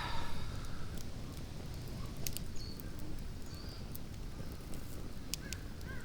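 Wood campfire crackling with a few sharp pops over a steady low rustle, and faint small-bird chirps a few times.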